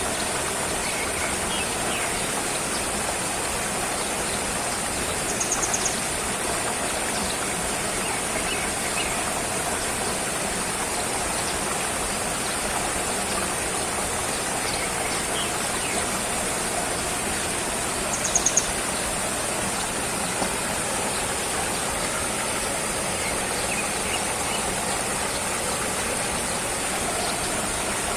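Steady rushing ambient noise with a constant high hiss, broken by a few faint chirps and two brief, rapid high trills, one about five seconds in and one about eighteen seconds in.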